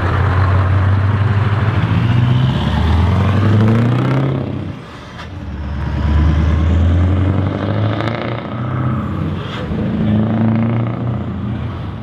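Heavy truck engines running loud and revving, rising in pitch as they accelerate, easing off about five seconds in and revving up again.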